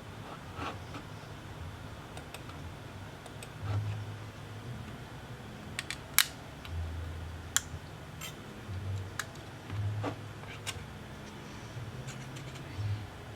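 Scattered small sharp clicks and light taps of hard objects being handled, with the loudest click about six seconds in and another at seven and a half seconds.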